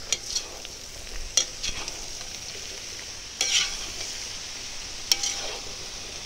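Potatoes and sausages sizzling steadily in a hot kazan while a metal spatula stirs them, scraping and clattering against the pan several times, most strongly about three and a half and five seconds in.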